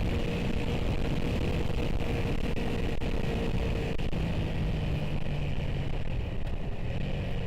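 Motorcycle engine running under way, heard from a helmet camera over steady wind and road noise. The engine note changes about four seconds in, its higher tone dropping away as the throttle eases.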